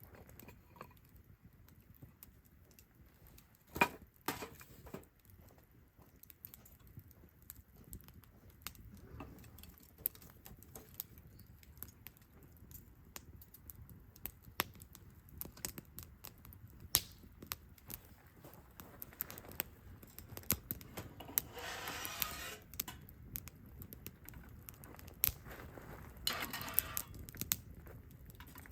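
Wood campfire crackling, with irregular sharp pops and snaps, a louder one about four seconds in. Two short rushing, hissing swells come about two-thirds of the way through and again near the end.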